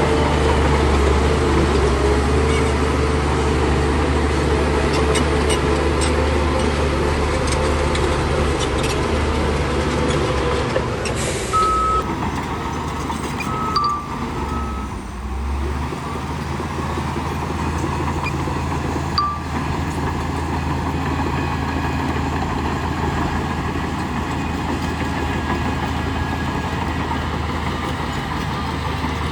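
Heavy diesel earthmoving machinery, a bulldozer and dump trucks, running steadily under load. A few short high beeps come around the middle, like a reversing alarm.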